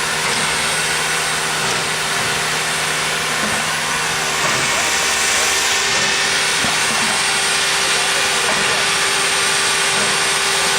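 Steam locomotive Er 787-46 standing at the platform: a steady loud hiss over a low steady hum, growing louder about four seconds in.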